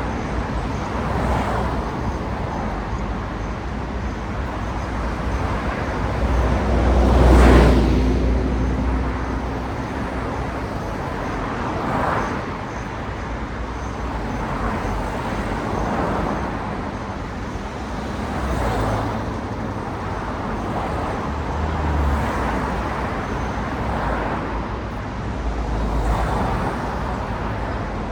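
Street traffic with cars passing one after another, each swelling and fading over a steady road noise. The loudest pass, about seven seconds in, brings a deep rumble.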